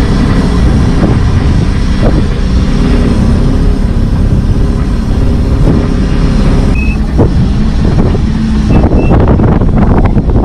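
Small motorboat's engine running steadily under way, a continuous low hum with heavy rushing noise.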